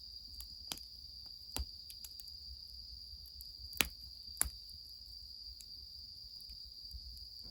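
Steady high trilling of crickets, with four sharp crackles from a wood fire scattered through it. The two loudest crackles come close together about halfway through.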